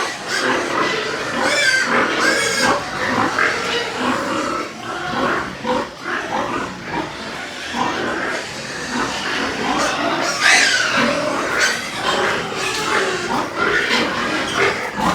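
Several pigs grunting and squealing continuously, with a loud high squeal about two-thirds of the way through.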